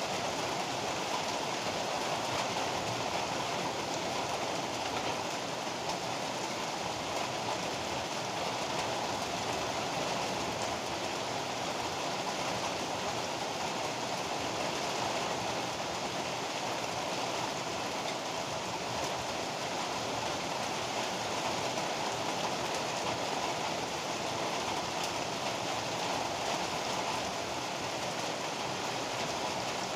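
Heavy rain pouring steadily, an even hiss with no thunder claps or other sudden sounds.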